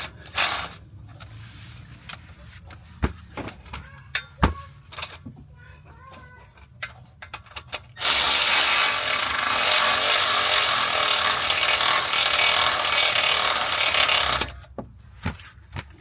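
A power tool runs the 14 mm exhaust bolts in, with a short burst just after the start and then one steady run of about six seconds beginning about eight seconds in. Scattered clicks and knocks of metal parts come between the two.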